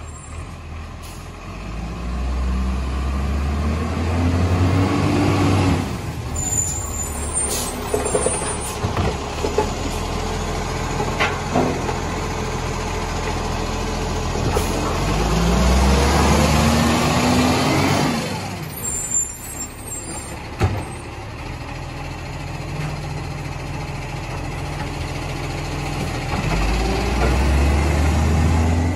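Rubbish truck's diesel engine revving up three times, each rise climbing in pitch, with a hiss of released air after the first two.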